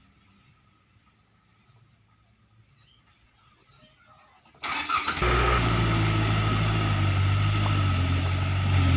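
Near silence for about the first half, then a truck engine comes in abruptly a little past halfway and keeps running steadily with a low hum.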